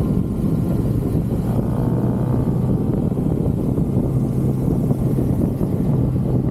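2023 Kawasaki ZX-6R inline-four engine on its stock exhaust, running at steady revs while the bike is ridden, with a steady low rumble of wind and road noise underneath.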